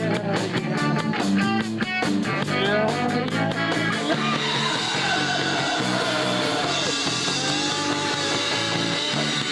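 Live punk rock band playing loud: distorted electric guitar over fast, even drum hits. About four seconds in the quick hits give way to a steady, sustained wash of guitar and cymbals.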